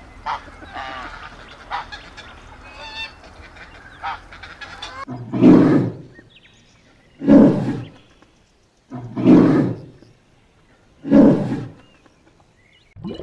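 Animal calls: a stretch of overlapping small honking calls, then four loud, low, rough calls evenly spaced about two seconds apart.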